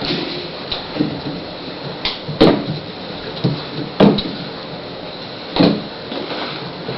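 Irregular thumps and knocks, the loudest about two and a half, four and five and a half seconds in, with lighter ones between: kittens pouncing and landing as they chase a feather wand toy.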